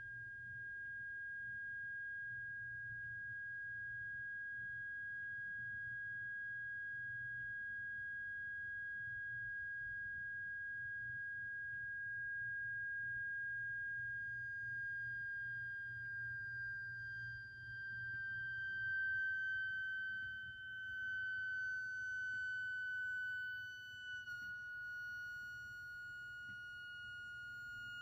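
Rancilio espresso machine humming at start-up after sitting idle for hours: a steady, high-pitched tone whose pitch sinks slowly, stepping down slightly near the end, over a faint low hum. The machine's support line takes it as likely an air bubble trapped in the machine trying to escape.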